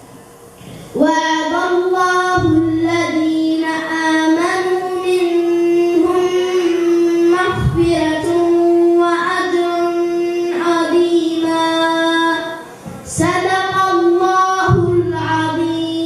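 A boy reciting the Quran in melodic tajwid chant, holding long notes at a steady pitch with ornamented turns. The recitation falls in phrases, pausing for breath about a second in and again shortly before the last few seconds.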